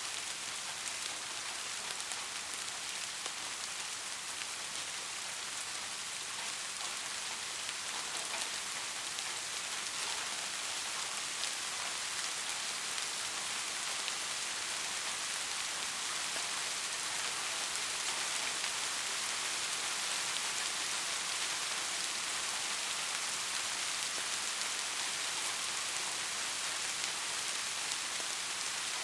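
Heavy rain falling steadily: a dense, even hiss with faint scattered drop ticks. It grows slightly louder after about eight seconds.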